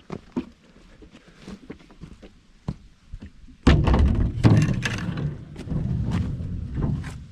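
Scattered light clicks and knocks, then about halfway through a sudden loud run of heavy thumps and clanking for about three seconds.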